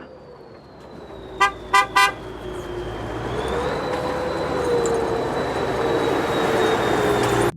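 A vehicle horn toots three times in quick succession, about a second and a half in, over a steady engine running. The engine's note rises slightly and grows louder after about three seconds.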